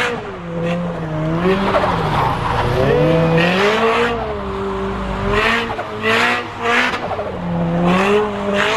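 A car engine revving up and down over and over while the tyres skid and squeal, the sound of a car doing a burnout or spinning its wheels.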